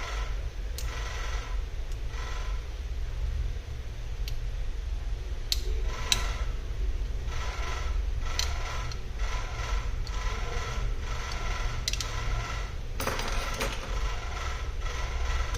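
Small metal repair tools clicking and tapping against a laptop's parts now and then, with light scraping, over a steady low hum.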